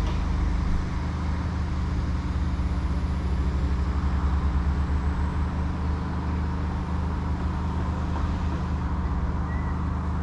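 Diesel passenger train's engine running steadily with a low, even hum.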